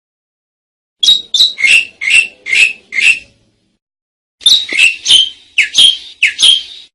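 Asian pied starling calling in two runs of short, harsh, chattering notes, about six to seven notes each, with a pause of about a second between them.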